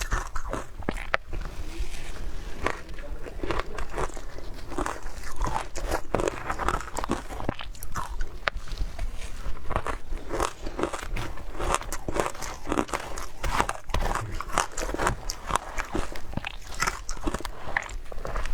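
A person biting and chewing frozen ice in close-up: rapid, irregular crunches, several a second.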